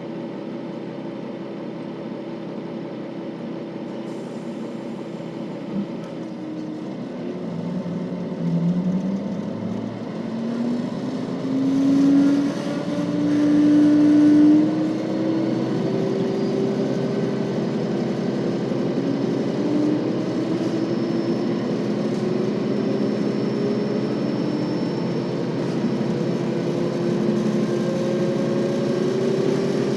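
KiHa 40 series diesel railcar's engine running steadily, then revving up as the railcar pulls away: its note climbs for several seconds, drops back suddenly about halfway through, then a steady whine rises slowly as the train gathers speed.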